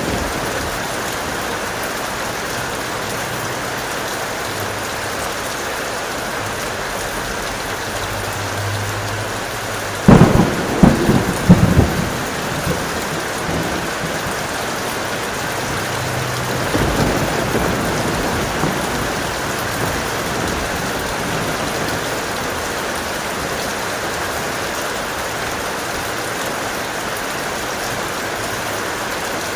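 Steady heavy rain with a sharp thunderclap about a third of the way in: a few loud cracks over about two seconds. A few seconds later a softer roll of thunder rumbles briefly before the rain carries on alone.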